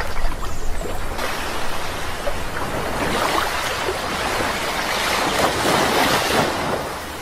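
Sea waves washing in: a steady rush of surf that builds through the middle and eases off near the end.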